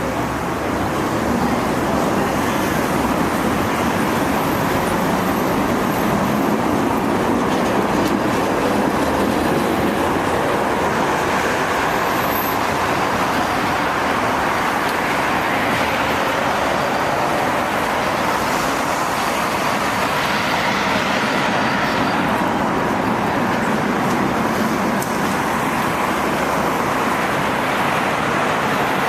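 Steady, continuous city road traffic noise from vehicles passing on a busy street.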